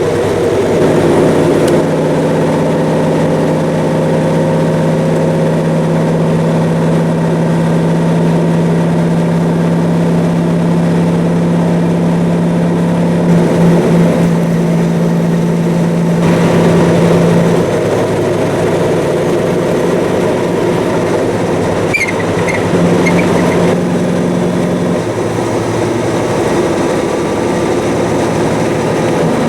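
Peterbilt 379 truck's diesel engine running as the truck drives: a steady drone whose pitch steps down and up a few times in the second half as the revs change.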